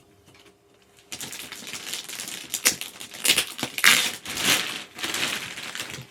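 Plastic wrapping being pulled and crinkled off gaming-chair parts: a dense run of crackling and rustling that starts about a second in.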